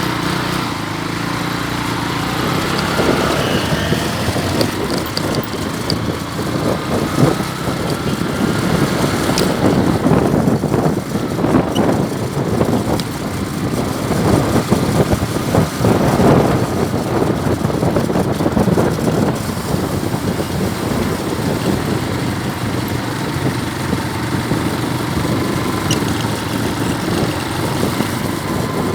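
Motorcycle running on the road while riding, a steady mix of engine and road noise.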